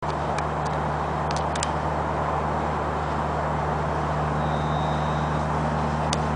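Steady low drone of a running motor vehicle, with a few faint clicks.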